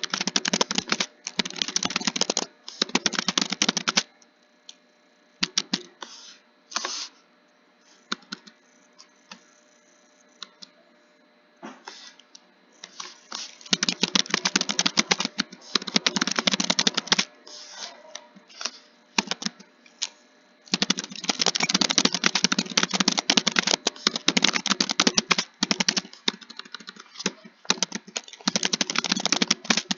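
Computer keyboard being typed on in fast runs of keystrokes. The runs are broken by two lulls of only scattered keys: a long one starting about four seconds in, and a shorter one a little past the middle.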